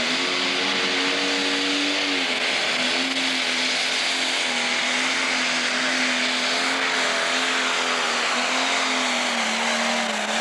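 Turbocharged diesel engine of an International 966 pro stock pulling tractor running flat out under load as it pulls the sled, a loud steady drone whose pitch dips slightly about two seconds in.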